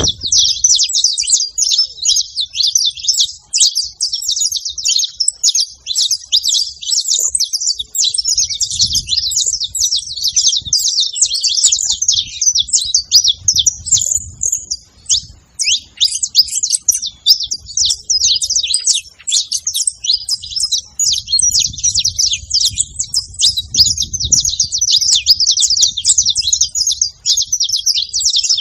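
Several saffron finches (canário-da-terra) singing together: a continuous dense chatter of rapid high chirps and trills, easing briefly about halfway through.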